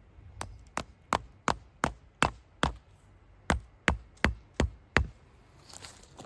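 Repeated sharp blows of a hand tool, about three a second: a run of seven, a short pause, then five more. Light rustling near the end.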